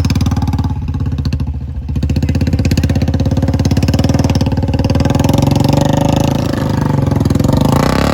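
Royal Enfield Bullet 350's single-cylinder engine running with a steady, fast thump of firing pulses, briefly dropping in loudness about two seconds in.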